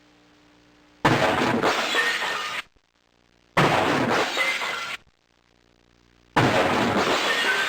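Glass shattering, three separate times a couple of seconds apart. Each crash starts suddenly with a spray of tinkling pieces and is cut off abruptly.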